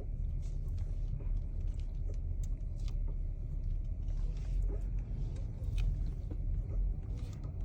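2022 BMW X5 with a steady low rumble and faint, irregular clicks from the steering, the clicking that starts after a long drive.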